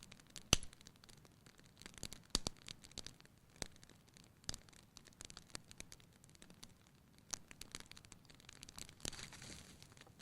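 Fire crackling in a fireplace: irregular sharp pops and snaps over a faint hiss, the loudest about half a second in.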